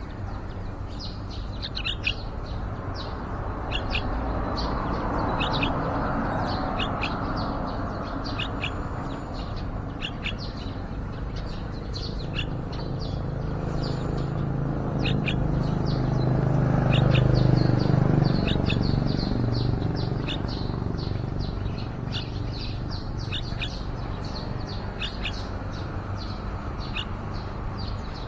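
Yellow-vented bulbuls give short, high chirps, several a second, throughout. Under them a low background rumble swells twice and is loudest about two-thirds of the way through.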